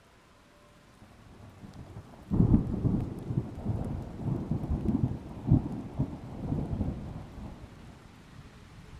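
Thunder rolling: a low rumble builds about a second in, breaks into a sudden loud clap a little after two seconds, and rumbles on in waves before fading near the end.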